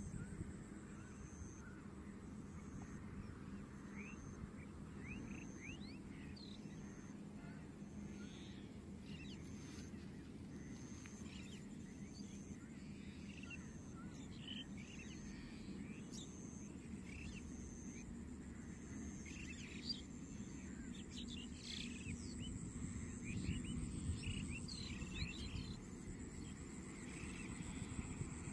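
Wild birds chirping and calling in short, scattered high notes over a steady low rumble. A faint high note repeats about once a second.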